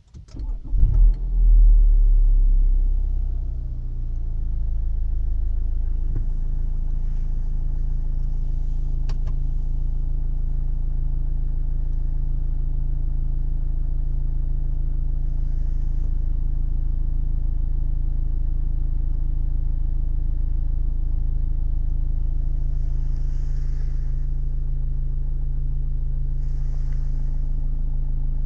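BMW 520d F10's four-cylinder turbodiesel cold-starting at −12.5 °C. It cranks briefly and catches about a second in, flares loudly for a couple of seconds, then settles within a few seconds into a steady idle.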